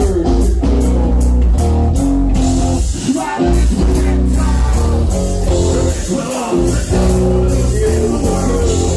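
Live metal band playing loud: guitars, bass and drums pounding, with singing in places.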